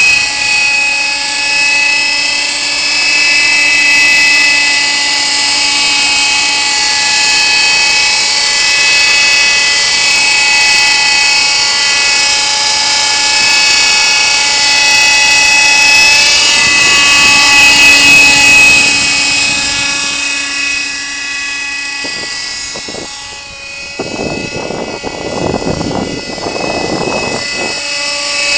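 Kyosho Nexas 30 radio-controlled helicopter's glow-fuel engine and rotor running in flight with a steady high-pitched whine that drifts slightly in pitch as it manoeuvres. The whine fades a few seconds before the end under a brief rushing noise, then comes back.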